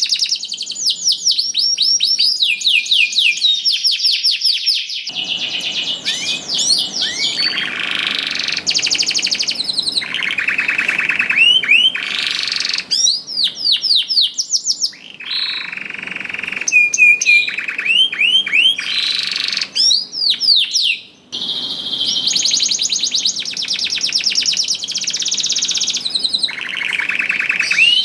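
Domestic canary singing a long, continuous song of rapid trills and repeated down-sweeping whistled phrases, each phrase a few seconds long, with a brief pause about three-quarters of the way through.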